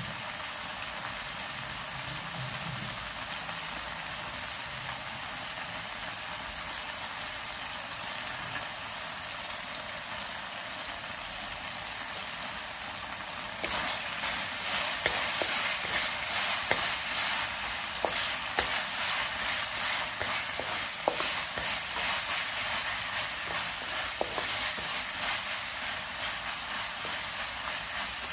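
Minced pork sizzling in a wok with a steady hiss. About halfway through, the sizzle gets suddenly louder as a wooden spatula starts stirring, with repeated scrapes and knocks of the spatula against the pan.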